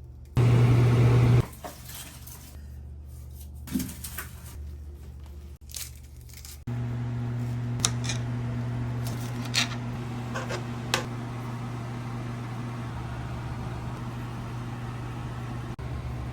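A machine hums steadily with a low, even tone. It is switched on briefly near the start, then runs continuously from about seven seconds in, with a few sharp clicks and knocks in between.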